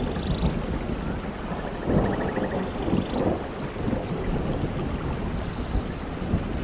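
Thunderstorm: steady rain with low rolling thunder underneath, swelling loudest about two seconds in.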